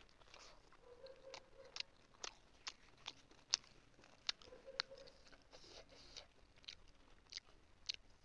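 Close-up mouth sounds of someone chewing a soft steamed chicken momo (dumpling): irregular wet clicks and smacks, a few a second.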